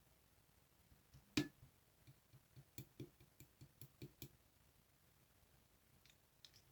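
Slime being worked by hand, making a string of small clicking pops: one sharp click, then a run of about ten quicker clicks, and a few faint ones near the end.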